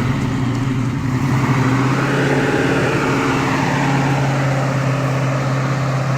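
1967 Chevelle's 350 small-block V8 running at steady revs, its engine note holding one pitch, with road and wind noise swelling about two to three seconds in.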